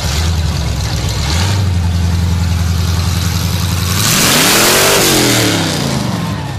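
Car engine running through open exhaust headers, idling steadily, then revved once about four seconds in, the pitch climbing and dropping back over about two seconds.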